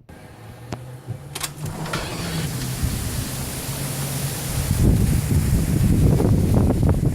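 Gusty wind rushing and buffeting the microphone over a steady low hum, the gusts turning louder and rougher about four and a half seconds in.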